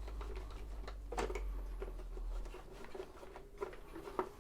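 A cloth wiping and rubbing the sewing machine's case, with soft strokes and light clicks and taps of handling. A low hum underneath stops a little past halfway.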